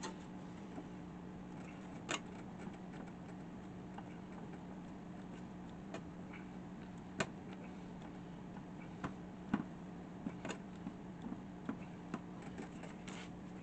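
Scattered, irregular metallic clicks and taps of hand tools and parts being handled while dismantling an old table saw, over a steady low hum.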